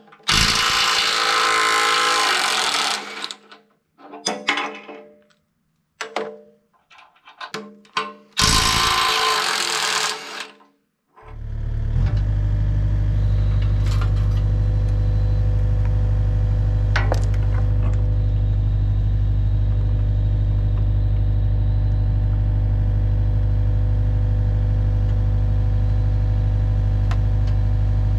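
Two loud bursts of rapid machine hammering, broken by short fragments and brief dropouts. About eleven seconds in, an engine settles into a steady idle for the rest.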